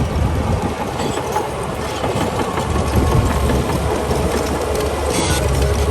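Crawler bulldozer's diesel engine running under load with the clanking rattle of its steel tracks, and a short hiss near the end.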